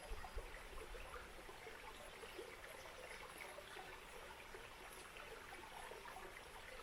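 Faint outdoor ambience: a steady rushing hiss with scattered soft crackles.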